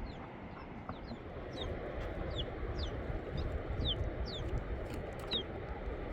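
Repeated short, high peeps, each falling in pitch, about two a second, over a steady low rumble.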